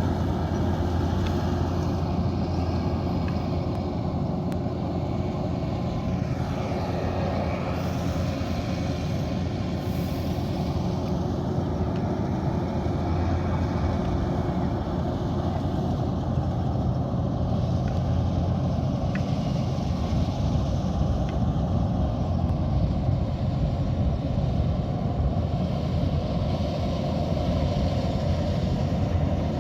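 Kubota DC108X combine harvester running steadily as it works, a constant low diesel-engine drone with the machine's working noise over it.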